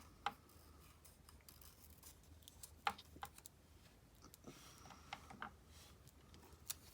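Quiet paper-crafting sounds on a desk: a few soft, scattered clicks and taps as paper pieces are handled, over a low room hum.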